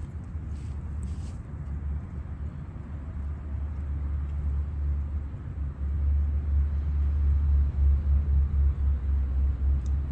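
A low, uneven rumble that grows louder about halfway through.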